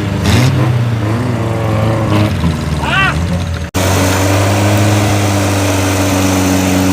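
Off-road vehicle engine running, its pitch rising and falling in the first half; after a sudden break just past halfway it runs on at a steady pitch.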